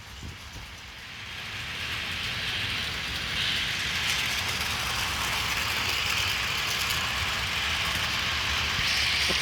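HO scale SD24 model locomotive and passenger cars running on the track: a steady rolling hiss over a low motor hum, growing louder over the first two seconds and then holding level.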